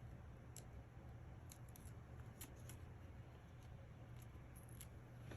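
Near silence over a steady low hum, with a scattering of faint small ticks and clicks from small paper craft pieces being handled at the table.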